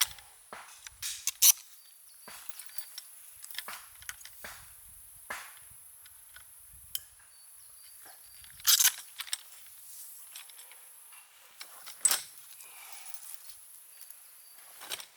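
Irregular clicks, clacks and knocks of things being handled, with some rustling, over a faint steady high hiss; the loudest knocks come about a second and a half in, near nine seconds and at twelve seconds.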